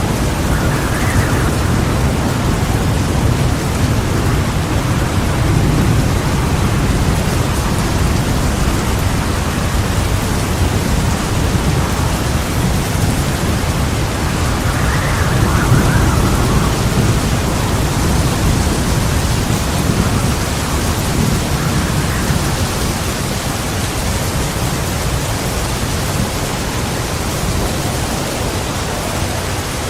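Heavy rain falling steadily with thunder rumbling low and continuously, swelling a few times and loudest about halfway through.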